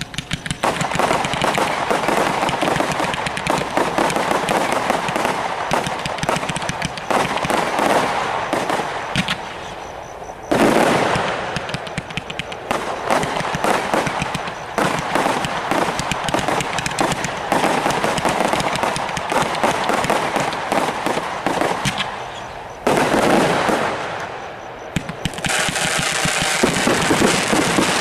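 Napoleon C2306 firework cake firing, a dense rapid stream of shots like machine-gun fire. The barrage surges louder about ten seconds in and again near the end, easing briefly before picking up once more.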